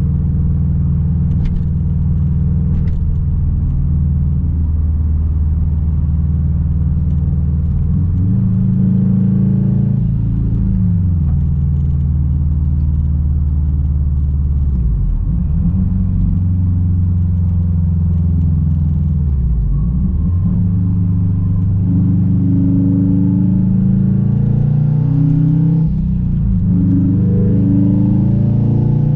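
Straight-piped 2006 Subaru WRX STI's turbocharged flat-four engine and exhaust, heard while driving. It holds a steady pitch for about eight seconds, then climbs in pitch under throttle, with sharp drops followed by renewed climbs several times.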